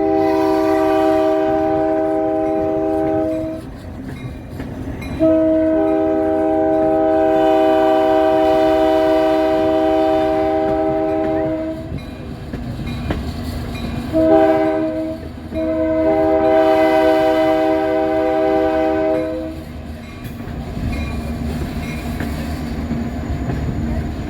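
EMD F40PHM-2 diesel locomotive's air horn heard at close range, sounding several notes together in a long, long, short, long sequence, the standard signal for a grade crossing. Between and after the blasts, the rumble of the moving train.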